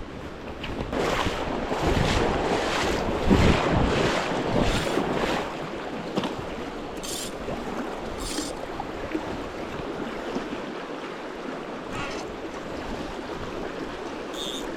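Flowing river water with wind buffeting the microphone; the buffeting is heavier for the first few seconds, then settles to a steady rush.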